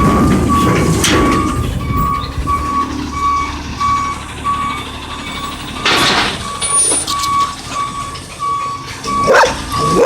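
Autocar ACX garbage truck reversing, its backup alarm beeping about twice a second over the low diesel engine. A burst of air hiss comes about six seconds in, and a dog barks near the end.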